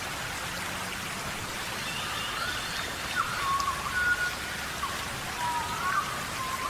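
Steady heavy rain falling in a tropical rainforest. Short high whistling calls rise and fall over it, about one or two a second.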